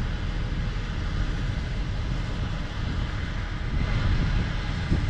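Engines of harvest machinery running steadily: a continuous low rumble with a hiss above it.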